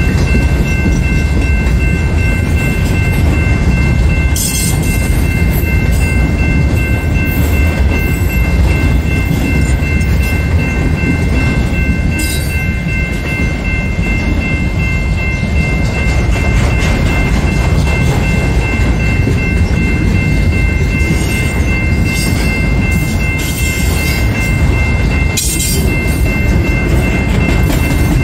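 Freight train of autorack cars rolling past: a steady low rumble of steel wheels on rail, with a steady high whine held over it and a few short, sharper noises now and then.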